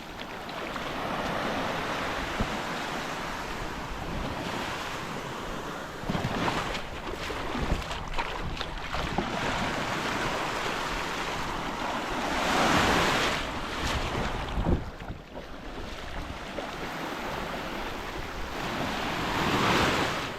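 Wind buffeting the microphone over rushing water from a boat under way, swelling loudest about twelve seconds in and again near the end, with scattered knocks and splashes in between.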